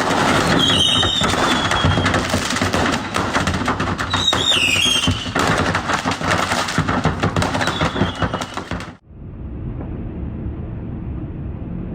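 Tornado wind: a loud, dense rush of wind noise full of crackling and clattering from debris, with a couple of short, falling squeals. About nine seconds in it cuts off to a quieter, steady rushing noise.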